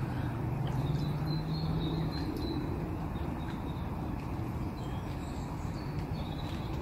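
Birds chirping in short repeated notes, in two spells, over a steady outdoor background hiss; a low hum is heard in the first couple of seconds.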